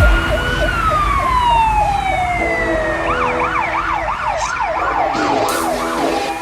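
Fire engine sirens sounding together over a low engine rumble. One long wail falls steadily in pitch as it winds down, while about halfway through another siren starts a rapid yelp, sweeping up and down about three times a second.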